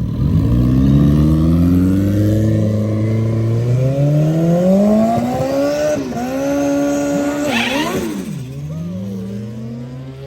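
Drag-racing motorcycles launching and accelerating hard down the strip, engine pitch climbing in steps through several upshifts with quick drops between gears, then fading away down the track.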